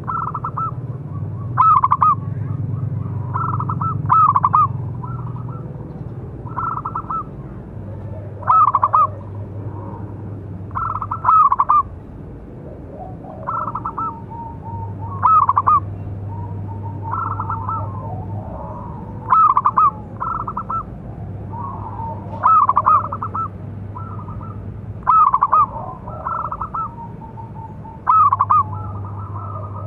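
Zebra dove (perkutut) cooing: short phrases of rising-and-falling coo notes, repeated every few seconds. A low hum comes and goes underneath.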